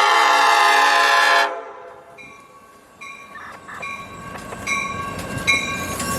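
Locomotive air horn sounding a loud multi-note chord that cuts off about a second and a half in. A bell then starts ringing about twice a second over the rising rumble of the approaching train.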